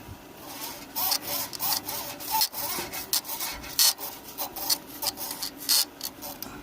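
Irregular rubbing and scraping strokes, a quick run of them of uneven loudness, as something is scrubbed or scraped by hand.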